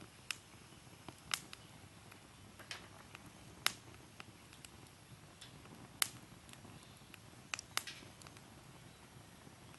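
Campfire burning in a fire pit: a soft steady hiss broken by irregular sharp crackles and pops, about eight in all.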